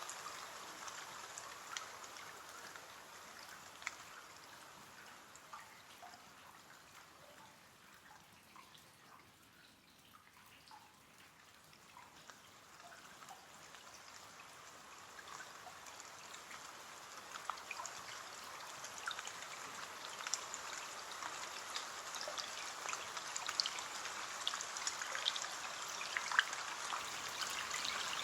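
Rain falling on a window: a steady hiss sprinkled with sharp ticks of single drops. It fades to its softest about a third of the way in, then swells again, growing louder towards the end.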